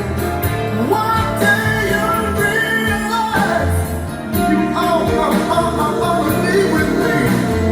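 A slow R&B love song with singing and a steady bass line, played through Hertz DSK 165.3 car door speakers during a speaker test.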